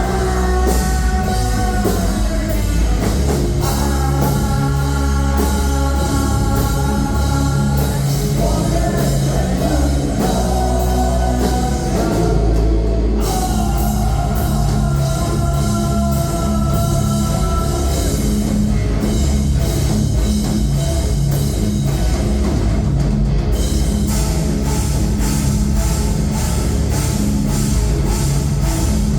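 Rock band playing loud and steady with distorted guitars, bass and a drum kit. Long held sung notes come through over it in the first half.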